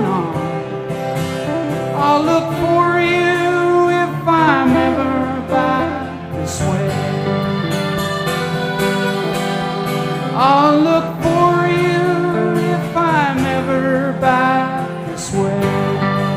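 Live country-folk band playing an instrumental break: strummed acoustic guitar and bass under a lead instrument playing a melody with sliding, bending notes.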